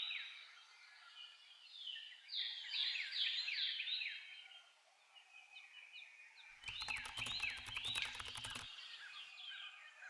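Songbirds singing, many short falling chirps overlapping. A burst of rapid clicking and rustle near the microphone runs from about six and a half to nearly nine seconds in.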